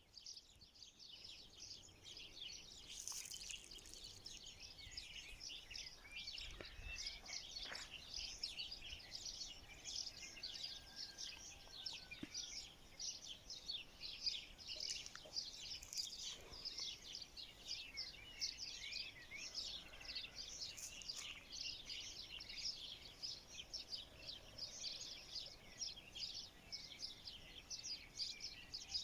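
A flock of small birds chirping together: a dense, continuous chorus of short, quick, overlapping chirps.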